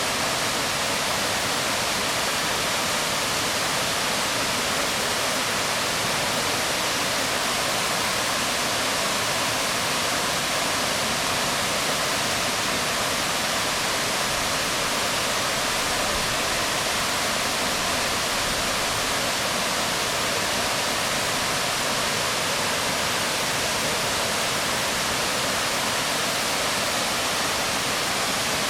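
Waterfall water pouring onto rocks: a steady, unbroken rush spread over all pitches, without a change.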